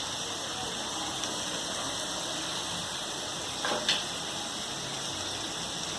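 Chopped vegetables sizzling steadily in a hot frying pan after a sprinkle of liquid, with a brief knock about four seconds in.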